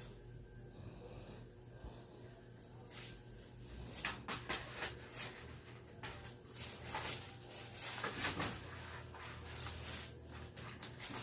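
Pet dog breathing noisily and snorting, with irregular sharp taps and rustles from about four seconds in.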